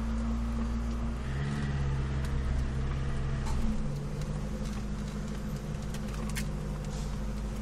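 Suzuki Swift being driven: a steady low drone with a humming tone that steps up and down in pitch a few times, and a few faint clicks in the second half. This is the odd noise the owner hears from the car while driving, its cause unknown.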